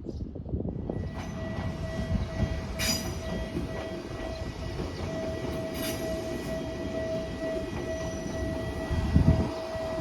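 Toyama Chiho Railway electric train running: a steady rumble with a steady whine coming in about a second in, two sharp clicks, and a heavier thud near the end.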